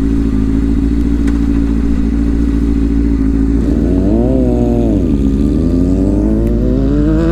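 Honda CBR600F4i inline-four sport-bike engine. It holds a steady note, revs up briefly about four seconds in and drops back, then climbs steadily in pitch as the bike accelerates away.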